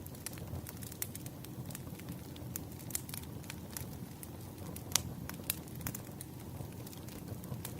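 Wood fire crackling: a steady low rumble of burning logs with irregular sharp pops and snaps, one louder pop about five seconds in.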